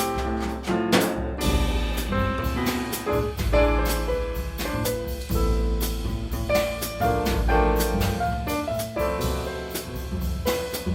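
Instrumental jazz passage of a live band: piano playing over a walking bass line and a drum kit.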